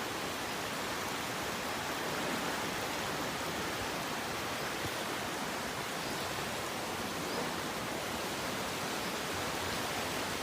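A steady, even hiss of noise spread across the whole range, with no distinct events.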